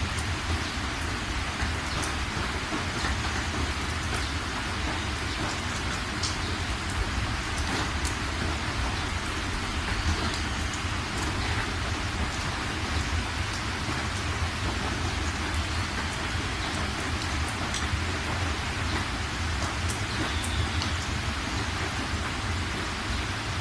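Steady rain falling, an even hiss of rain with scattered individual drop ticks and a steady low rumble underneath.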